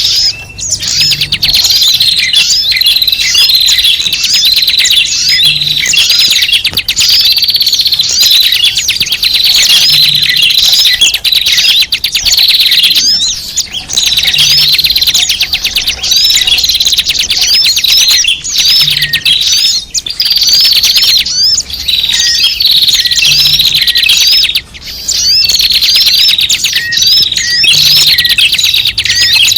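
Dense, continuous chorus of many small birds chirping and twittering rapidly in high-pitched, sharp notes, played as a bird-luring ('pikat') call.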